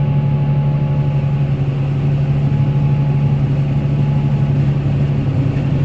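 Tractor engine running steadily while powering a straw blower: a constant drone with a thin, steady whine above it.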